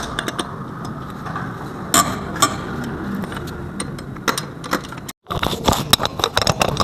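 Irregular metallic clicks and knocks from hands and tools working on a car's brake caliper assembly. The knocks come thicker after a short break about five seconds in.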